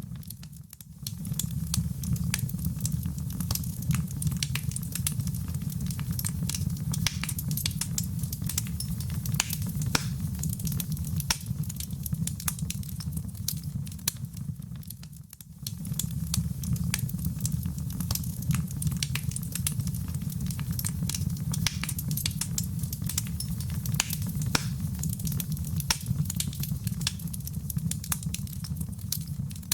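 Wood fire burning in a fireplace: a steady low rumble with many sharp crackles and pops. The sound dips briefly near the start and again about halfway through.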